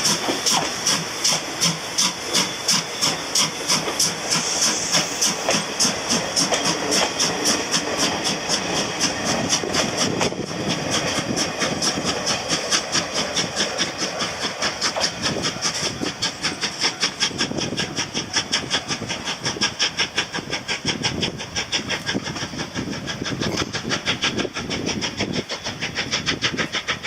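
JNR Class C12 tank steam locomotive C12 66 working, its exhaust chuffing in a fast, even rhythm, about three beats a second, over a steady hiss of steam.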